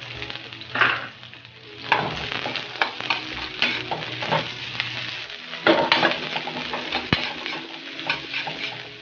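Garlic and red onion frying in chicken oil in an aluminium wok, sizzling steadily while a spatula stirs and scrapes against the metal in quick strokes, busier from about two seconds in.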